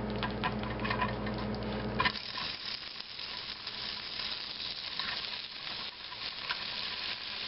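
Leftover eggs, meat and potatoes sizzling as they are forked into a hot, oiled non-stick frying pan, with light clicks of a fork against the pan and tray. A low hum in the first two seconds stops with a sharp clack about two seconds in, and the sizzling carries on steadily after it.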